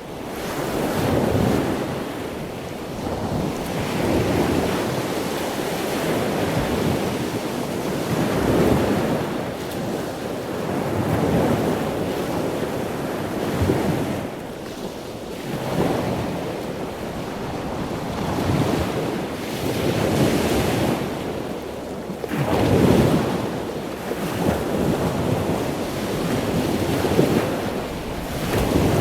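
Ocean waves breaking and washing in, one surge after another about every two to three seconds.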